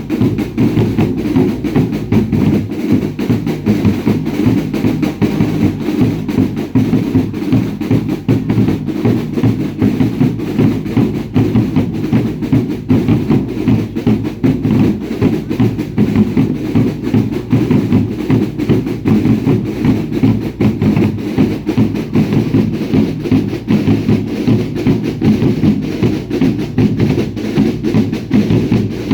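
Bass drums and snare drums of a baile indio dance troupe beating a fast, steady rhythm without a break.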